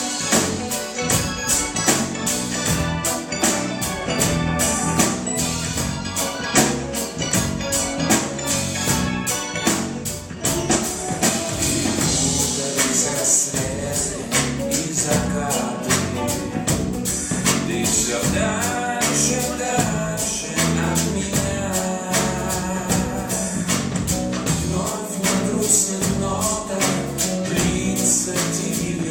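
Live pop band playing a song with a steady beat: drums with regular high cymbal or tambourine strokes, a bass line, and a singing voice over the band.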